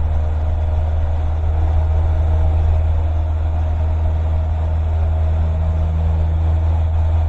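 Cessna 152's four-cylinder Lycoming piston engine running steadily at full power, a loud, even low drone.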